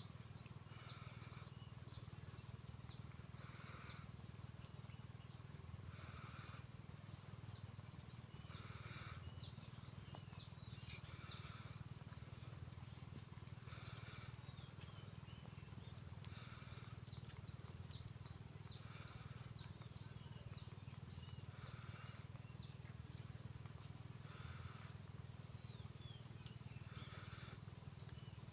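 An insect's continuous high, rapidly pulsing trill, with short chirping calls repeating throughout over a low steady hum.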